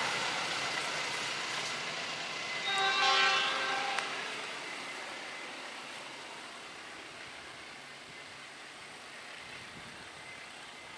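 A passing train's rumble fading into the distance, with a horn blast of about a second from the train roughly three seconds in.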